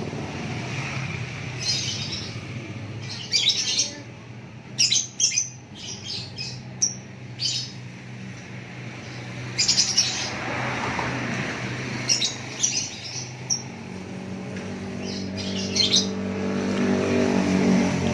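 Caged songbirds singing in short, scattered bursts of high chirps over a steady low engine hum. A passing motor vehicle grows louder near the end.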